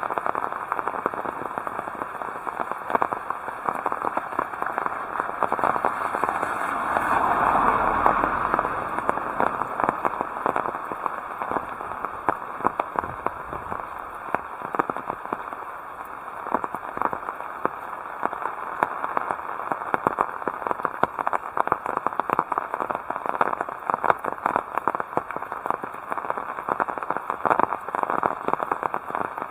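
Heavy rain falling, a dense steady crackle of many drops striking close by. It swells louder for a couple of seconds around seven to nine seconds in.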